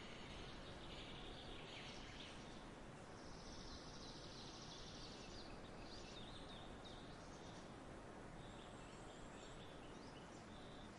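Faint outdoor nature ambience: a steady soft hiss with birds chirping on and off.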